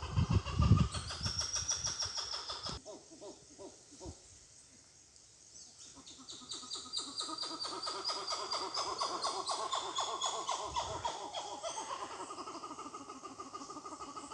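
Rapid, evenly pulsing animal calls in two bouts, the first rising in pitch and breaking off suddenly, the second longer and steady, with low thumps at the very start.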